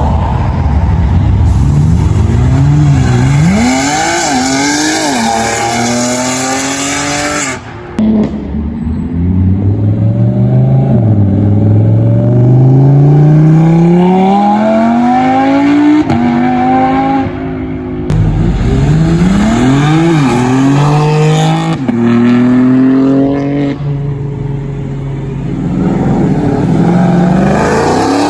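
Loud performance car engine revving, its pitch rising and falling in quick blips several times and climbing in one long pull for several seconds in the middle.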